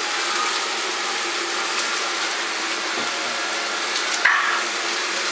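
Partridge carcasses and legs browning with onion, carrot and celery in hot oil, sizzling steadily in the pot. A brief sharper sound comes about four seconds in.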